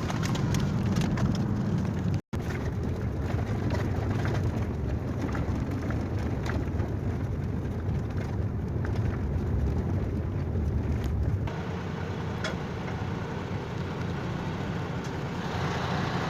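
Heavy truck's engine and road noise while driving, a steady low rumble, with a split-second drop to silence about two seconds in.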